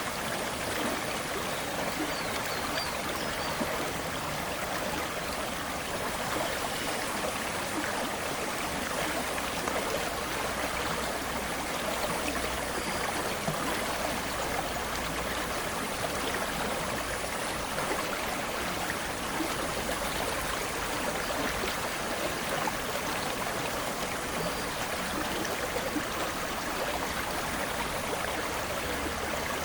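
River water flowing, a steady even rush of moving water.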